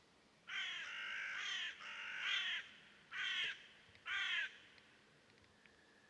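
Crow-like bird cawing: a run of harsh, joined calls, then two short single caws about a second apart.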